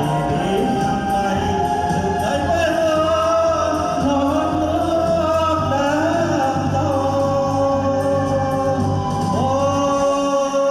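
A song with singing over backing music: long held vocal notes with vibrato over a steady bass line.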